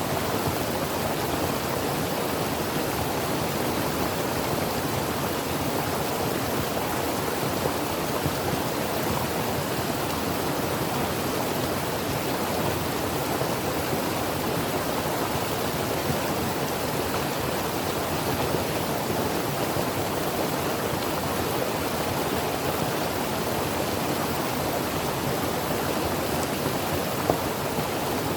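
Creek water flowing over rocks: a steady, even rush of running water with a few small splashes.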